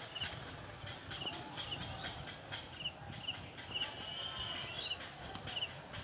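A bird calling short, high double chirps over and over, every half second or so, over a low steady outdoor rumble.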